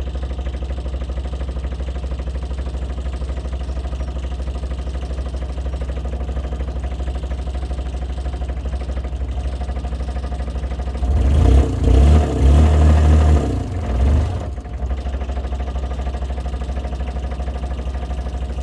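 A dumper's engine idling steadily. About eleven seconds in it gets louder and heavier for around three seconds, then drops back to idle.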